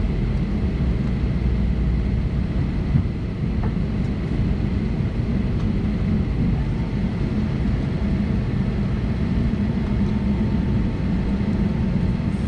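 Steady cabin noise inside an Airbus A320neo on the ground after landing: a low engine and air-system rumble with a faint thin whine.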